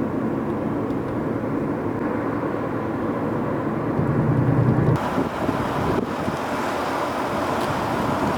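Car driving on the road: steady engine and tyre noise, which changes abruptly about five seconds in.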